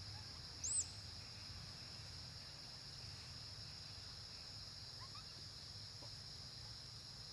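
Steady high-pitched drone of crickets or similar insects, with one short, high arched chirp just under a second in and a few faint chirps around five seconds in.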